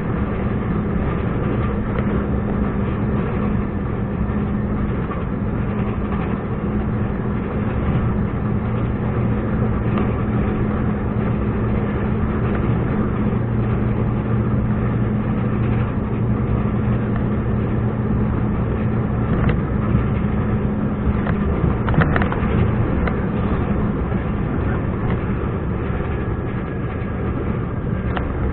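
Scania R420 truck's turbocharged diesel engine running steadily under way, its drone holding an even pitch. A brief knock about three-quarters of the way through.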